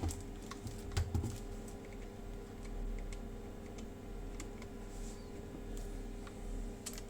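Light clicks and taps of small metal parts and a hand tool being handled while working on an airsoft gun's motor, with two louder knocks about a second in.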